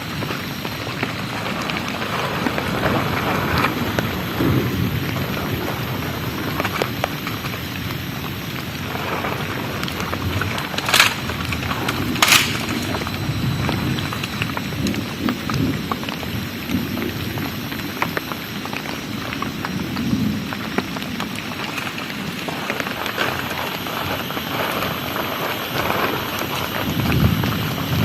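Heavy rain pouring steadily during a thunderstorm, with low rumbles swelling and fading. Two sharp clicks stand out near the middle.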